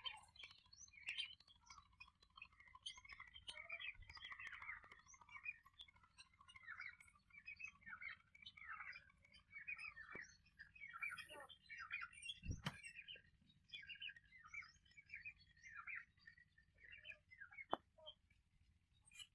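Faint, busy chirping and chattering of small birds that keeps on throughout, with a few falling notes and soft clicks.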